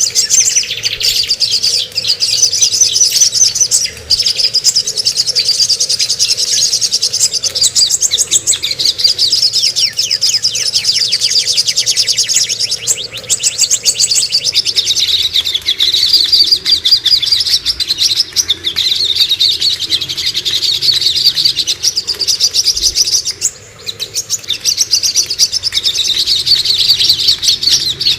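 Songbirds singing a continuous, very rapid high-pitched chattering trill, note after note with hardly a pause and only brief gaps about 13 and 24 seconds in.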